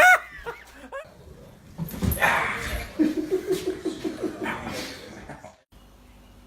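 A pet animal vocalizing: a short noisy burst, then a quick run of short pitched calls lasting about two seconds, cut off suddenly.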